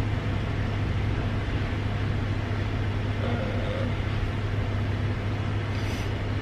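Steady low hum of a truck idling, heard from inside the cab.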